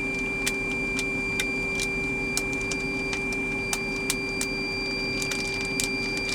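Plastic zip-top freezer bag crinkling and crackling in irregular sharp clicks as the air is pressed out of a bag holding a steak, over a steady background hum.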